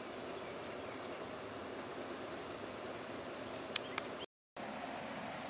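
Quiet outdoor ambience: an even hiss with faint, short, high chirps now and then. Two sharp clicks come a little before the sound cuts out completely for a moment, about four seconds in.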